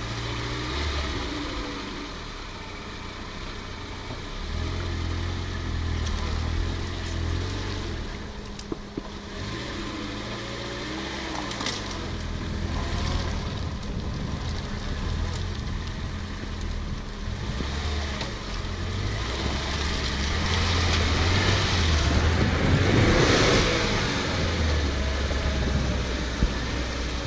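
Off-road 4x4 engine running under load, its revs rising and falling. A louder rushing noise swells about 22 seconds in and fades a couple of seconds later.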